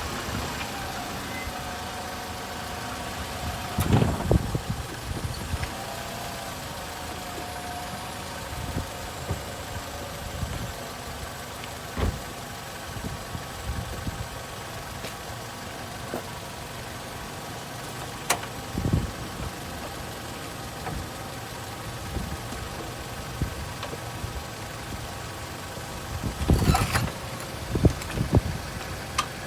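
Nissan Rogue running in drive with its raised wheels spinning freely, a steady drivetrain and engine drone with a few sharp knocks now and then. The car has a noisy wheel bearing, though which wheel it comes from is hard to pick out.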